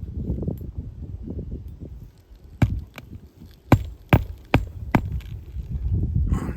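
Roofing hammer driving nails into shingles: one sharp strike a little over two seconds in, then four quick strikes about half a second apart. A low rumble runs underneath.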